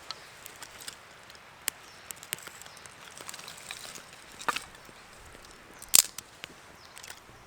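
Irregular sharp clicks and knocks, the loudest a sharp crack about six seconds in.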